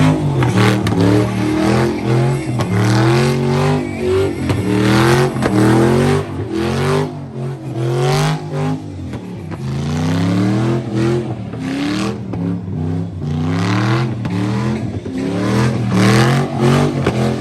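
Truck engine revving hard, over and over, its pitch climbing and dropping every second or two.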